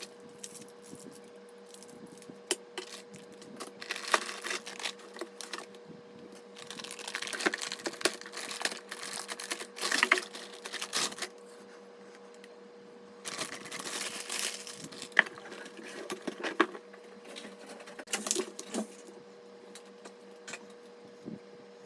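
Hands working on computer parts: scattered clicks and taps with stretches of rustling, as of parts and plastic packaging being handled, over a steady faint hum.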